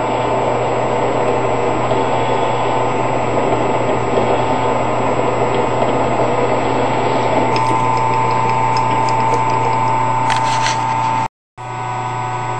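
Harbor Freight 10 x 18 wood lathe, converted to cut metal, running steadily with a constant motor hum and a steady whine. A few light ticks come near the end, and the sound cuts out abruptly for a moment about eleven seconds in.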